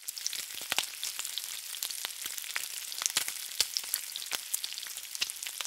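Food frying in hot oil: a steady high sizzle with many sharp pops and crackles.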